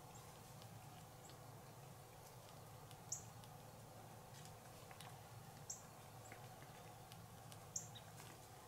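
Near-silent outdoor quiet broken by three short, high chirps about two and a half seconds apart from a small bird, over a few faint scattered ticks.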